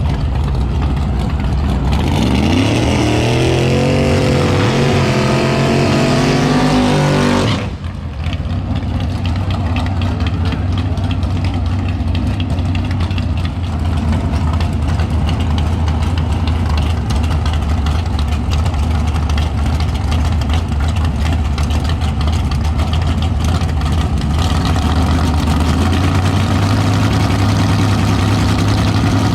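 A drag race car launching and accelerating hard, its engine pitch climbing in steps through the gear changes, cut off suddenly about eight seconds in. After that a steady low engine drone runs on.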